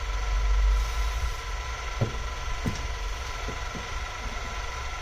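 A steady electrical hum of several pitches, with a low rumble in the first second and a few light clicks or taps from about two seconds in.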